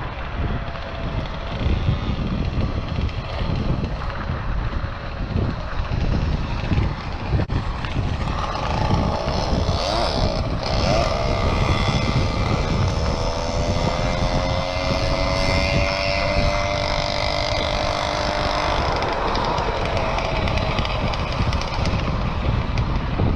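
Wind buffeting an action camera's microphone on a moving bicycle, a steady rumble throughout. From about eight seconds in, a humming tone joins it, drawn out for several seconds and slowly falling in pitch, then fading out.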